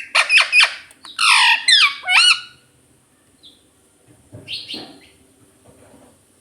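Ringneck parrot calling in a quick run of short, loud squawks with sliding pitch for about two and a half seconds, then going quiet. A brief, softer scratchy noise comes about four and a half seconds in.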